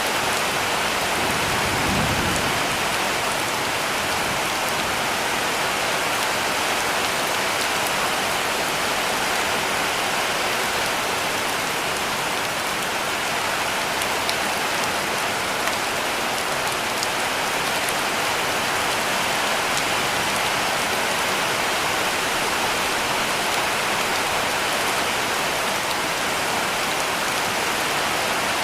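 Heavy rain falling steadily on a cabin roof: an even, unbroken hiss of rain, with one brief low thump about two seconds in.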